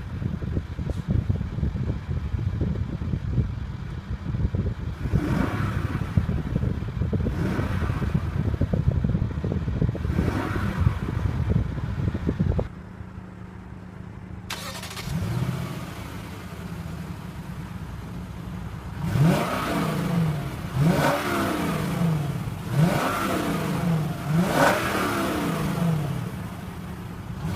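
Lexus LS 460's 4.6-litre V8 running: a loud, rough low sound for about the first half, which drops suddenly to a quieter, steady idle. About two-thirds in comes a run of quick throttle blips, the engine note rising and falling several times.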